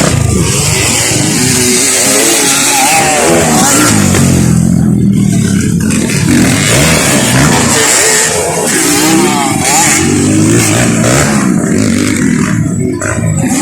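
Dirt bike engines revving, the pitch climbing and dropping over and over as the throttle is worked.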